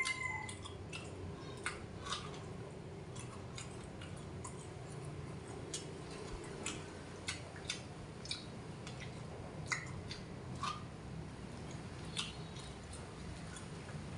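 A person chewing boiled sticky corn off the cob close to the microphone: irregular soft mouth clicks and smacks every half second to second or so.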